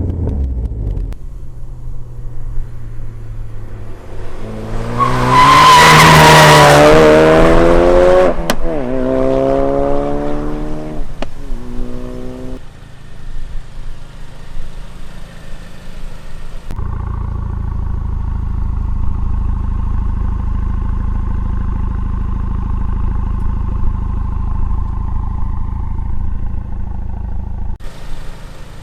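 Ford Focus RS Mk3's turbocharged 2.3-litre four-cylinder breathing through a Bull-X EGO-X aftermarket exhaust, accelerating hard. It rises in pitch and is loudest about five to eight seconds in, with two upshifts breaking the climb, then eases off. Later comes a long steady drone of engine and road noise at constant speed.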